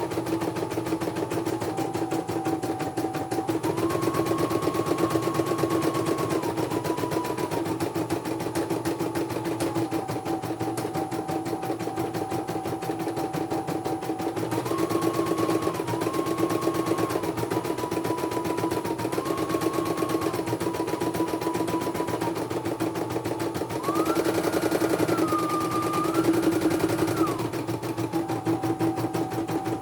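Computerized embroidery machine stitching at speed: a rapid, even chatter of needle strokes under a motor whine that steps up and down between a few pitches every second or two.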